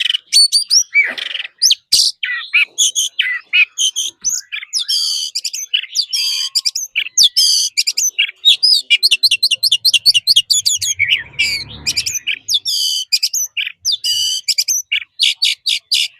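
Oriental magpie-robin singing a loud, continuous, varied song of clear whistles and chirps, with runs of quick repeated notes in the middle.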